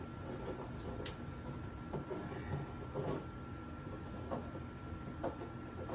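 A few light knocks and scrapes of hand tools being moved against a wall, spaced about a second apart, over a faint steady hum.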